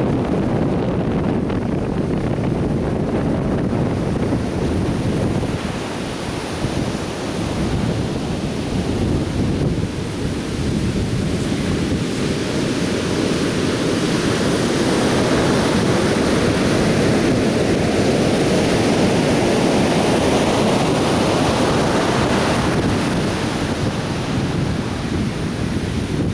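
Atlantic Ocean surf breaking and washing on a beach, a steady rush with a swell that builds and broadens about halfway through, with wind buffeting the microphone.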